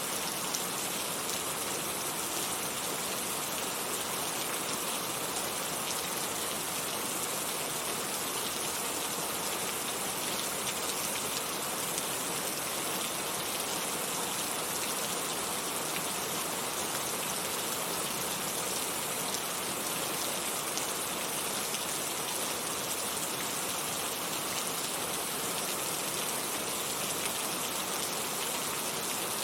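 Heavy rain falling steadily, a dense even hiss of drops on surfaces with no gusts or breaks.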